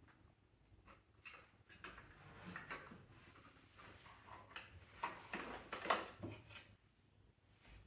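Metal hand tools clicking and clinking as the bolts of a cover are undone and the cover is worked loose, with a cluster of louder knocks and scrapes about five to six and a half seconds in.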